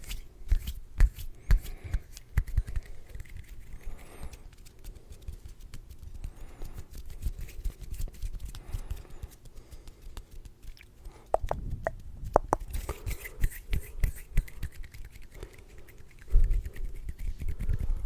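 Close-miked ASMR tapping and hand sounds: fingers tapping and hands rubbing in a quick, irregular run of taps and low thumps, with a few short squeaks midway and a louder run of thumps near the end.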